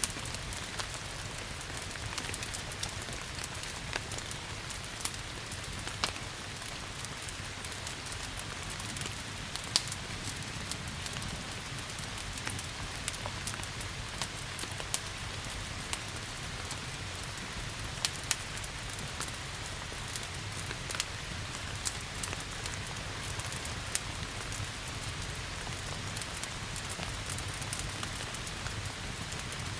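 Steady rain hiss mixed with a crackling wood fire, whose sharp pops and snaps come at irregular moments throughout, a few of them louder than the rest.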